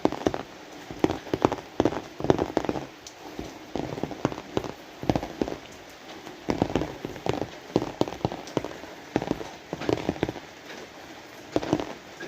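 Rain falling, with many large drops landing as separate, irregular taps over a steady hiss.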